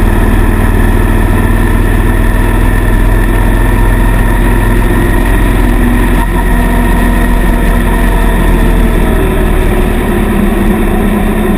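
Suzuki M800 cruiser's V-twin engine running steadily under way, loud and close to the microphone, with the engine note climbing slightly in the last few seconds.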